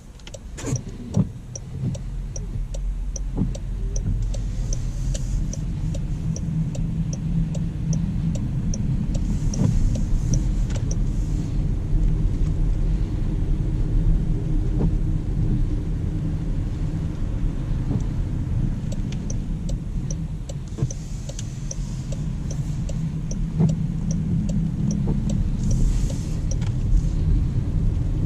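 Low rumble of road and tyre noise inside a 2019 Jaguar I-Pace electric SUV as it drives, rising from about two seconds in. A quiet, regular high ticking, about two a second, comes in two stretches.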